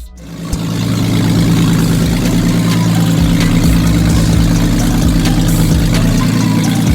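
Nissan Xterra race truck's engine running at a steady speed, fading up over the first second and then holding an even note without revving.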